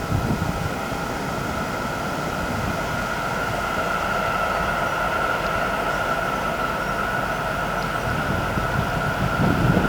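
Freight train running past: a continuous rumble of wheels on the track with a steady high-pitched tone over it.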